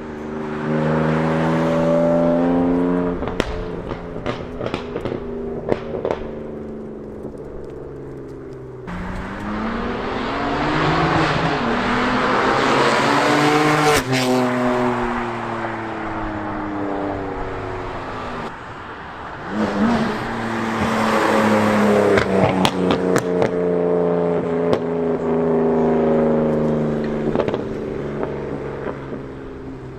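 BMW M4's twin-turbo inline-six running through catless downpipes and an aftermarket FI valved exhaust, loud. It accelerates twice, the pitch climbing then falling as it lets off, with crackles and pops on the overrun.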